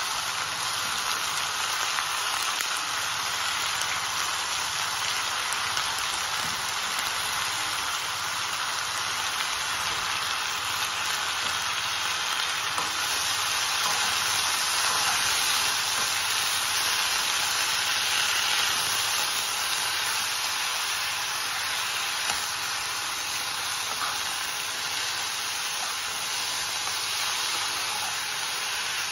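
Chopped keerai (leafy greens) sizzling steadily in a kadai as they are stir-fried and turned with a spatula.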